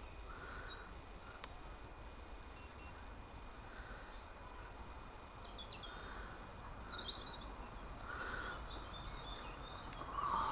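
Outdoor background noise with faint bird chirps.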